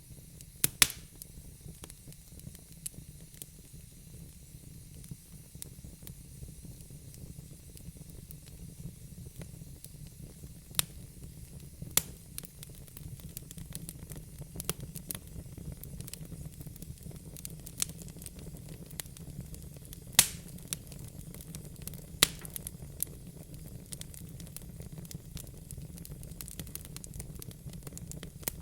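Fire crackling in a fireplace: a steady low rumble and hiss with scattered sharp pops, the loudest about a second in and several more later on.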